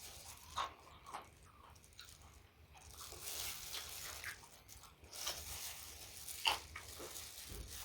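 Close-miked eating: a person biting and chewing food, with irregular crunches and wet clicks, one sharp crunch about six and a half seconds in.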